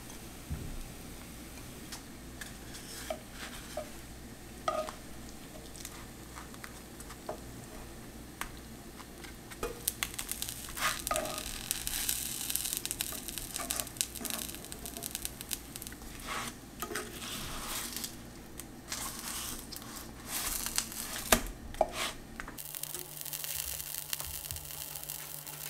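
Food sizzling in a frying pan, the hiss growing stronger partway through, with scattered light taps and scrapes of a utensil against the pan. The sound changes abruptly near the end to a steadier hiss.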